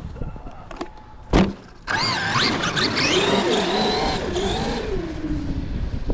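Traxxas X-Maxx Ultimate RC monster truck's brushless electric motor whining under throttle in deep snow, its pitch rising and falling for about three seconds before winding down. A single sharp knock comes about a second in.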